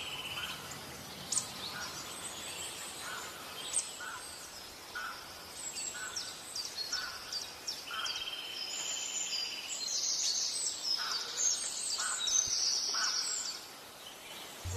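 Several birds chirping and calling over light outdoor hiss: many quick, high, sharp notes, with a lower short note repeating at an even pace about twice a second.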